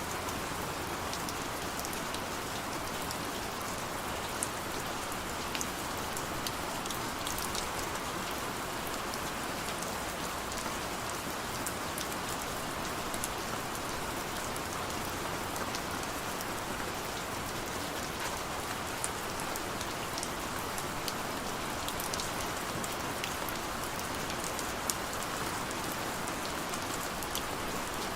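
Heavy rain falling steadily, an even hiss with many sharp individual drop hits scattered through it.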